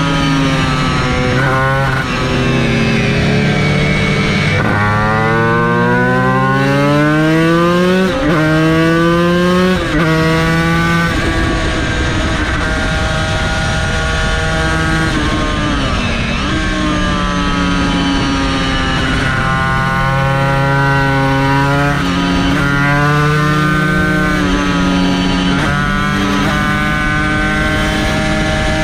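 Yamaha TZ250 two-stroke V-twin race engine at full song, its pitch climbing hard, dropping sharply at each gear change, easing off and climbing again several times.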